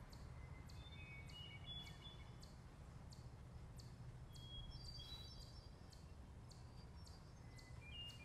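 Near silence: a low steady background hum with a few faint, short bird chirps, a cluster about a second in, another about halfway through, and more near the end. A faint high ticking repeats about two to three times a second throughout.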